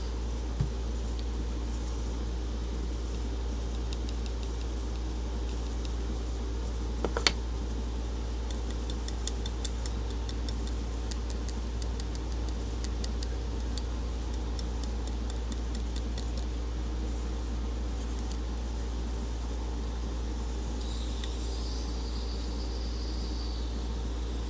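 Steady mechanical hum of a running appliance, with a sharp click about seven seconds in and a scatter of faint light ticks over the next several seconds.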